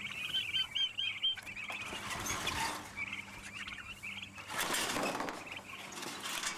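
Small birds chirping in quick runs of short, high notes, with a brief rush of noise about five seconds in.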